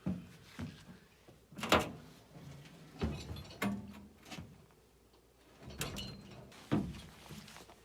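A series of knocks and thuds, about six sharp ones spread out, the loudest about two seconds in, like a heavy object being handled and bumped.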